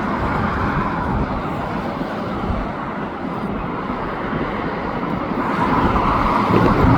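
Steady roar of highway traffic mixed with a slow freight train of autorack cars rolling past, growing a little louder near the end.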